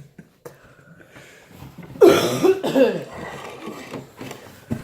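A person coughing and clearing their throat, one loud harsh cough about two seconds in, as the burn from an extremely hot sauce catches in the throat.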